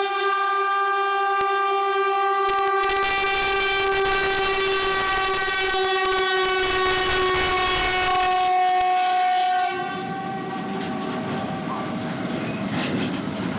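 A train horn held in one long, steady blast. About two and a half seconds in, the rumble of the train going by joins it. The horn cuts off about ten seconds in, and the train's rumble carries on.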